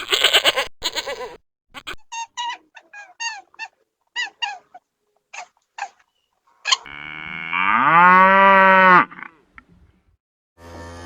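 Animal calls: a quick run of short, high calls that bend in pitch, then one long, lower call lasting about two seconds near the end.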